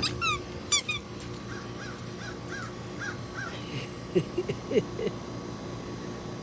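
Birds calling outdoors: two quick sharp, falling calls in the first second, then a run of six short, evenly spaced notes. A few lower, rising squeaks come about four seconds in.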